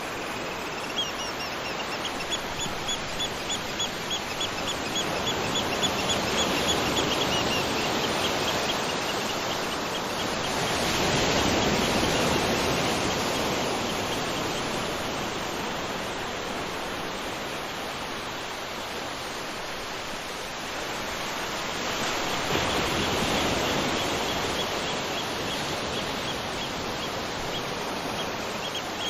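Waterfall rushing steadily, swelling and easing a little in loudness. Over it a bird calls a quick run of repeated short, high notes for several seconds near the start, and again near the end.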